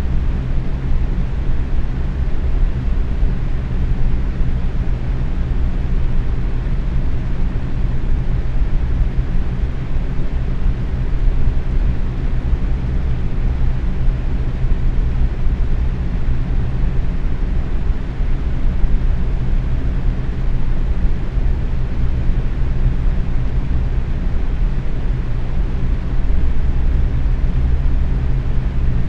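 Box fan running steadily at medium speed: a constant whoosh of moving air, heaviest in the low end, with a faint steady motor hum.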